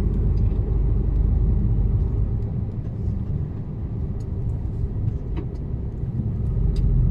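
Mercedes-Benz Actros truck driving, its diesel engine and the road giving a steady low rumble that eases off for a few seconds in the middle and builds again near the end.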